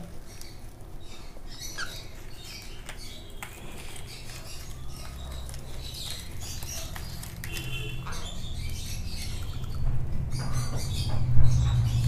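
A pet bird shuffling and scratching, with a few short, faint chirps, over a low steady hum that grows louder in the last few seconds; a louder knock near the end.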